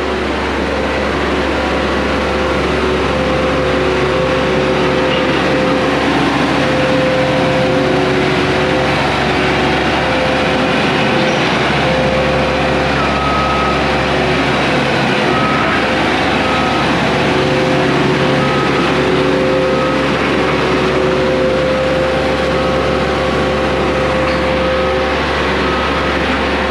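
Drum roller running steadily as it rolls a freshly watered crushed-rock floor, its diesel engine holding an even note. A short high beep repeats from about halfway in.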